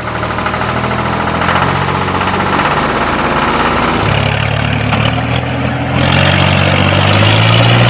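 Tractor engine running steadily, stepping up in pitch and loudness about four seconds in and again about six seconds in.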